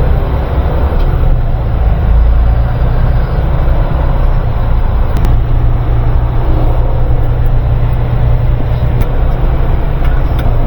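Semi-truck driving at low speed, heard from inside the cab: a steady low diesel engine rumble with road noise.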